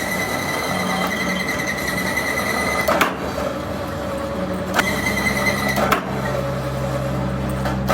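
Workshop machinery running steadily with a high whine and a low hum that grows stronger about halfway through, with a few sharp metal knocks.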